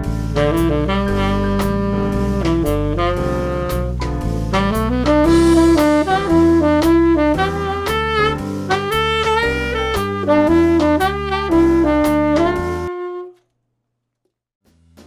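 1936 Buescher Aristocrat tenor saxophone playing a jazz melody up and down its range over a backing track with a moving bass line and drums. The playing stops about 13 seconds in, leaving a little over a second of silence.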